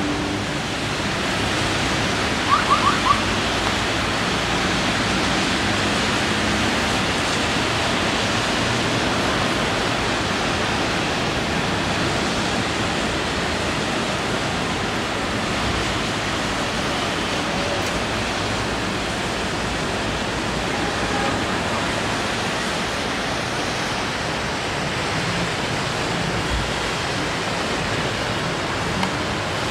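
Rain falling steadily on wet pavement and parked cars, an even hiss. About three seconds in there are four quick high chirps.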